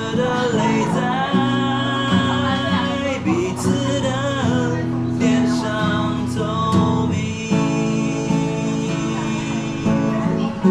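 Acoustic guitar playing a song accompaniment, with a male voice singing the melody over it.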